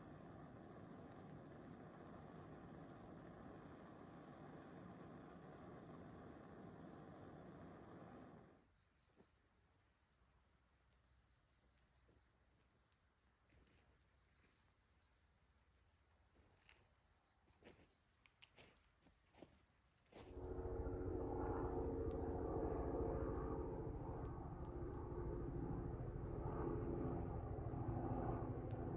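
Insects chirping in a steady, rapidly pulsing high trill. A noise bed drops away about a third of the way in, and a louder low rumble with a steady hum starts suddenly about two-thirds through.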